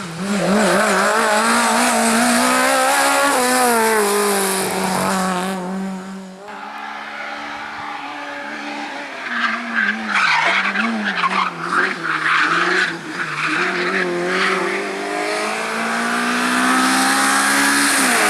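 A competition car driven hard, its engine revving up and down as it changes gear and works through corners, with tyres squealing. About ten seconds in, the engine note breaks up into a series of sharp crackles.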